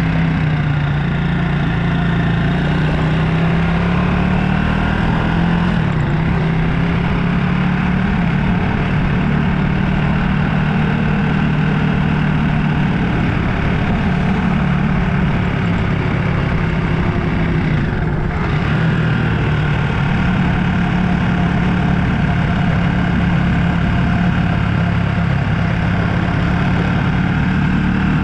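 Motorbike engine running while riding, a steady note that drifts slightly up and down in pitch, over a constant rushing noise.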